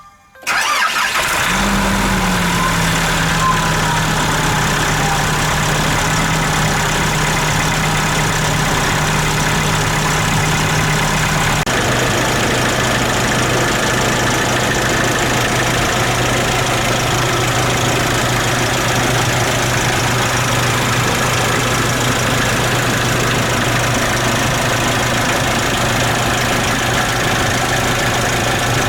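Nissan YD25DDTi 2.5-litre four-cylinder turbo-diesel in an NV350 Caravan starting about half a second in and settling into idle. The idle runs raised at first, then steps down to a lower steady idle about twelve seconds in; at 100,000 km the engine is in top condition by its owner's account.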